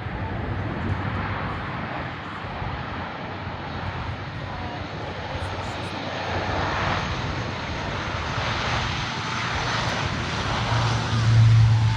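C-130J Super Hercules turboprop engines running as the aircraft comes in low for a touch-and-go landing. The sound is a steady roar that builds, turning loudest in the last second with a deep steady drone.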